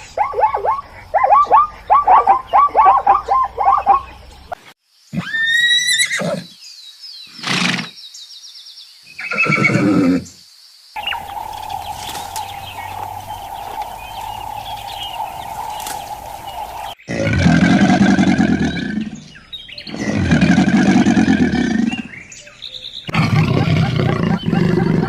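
A sequence of different animal calls, cut one after another: rapid repeated yapping calls, then a horse whinnying, a steady droning tone lasting several seconds, and two long low calls near the end.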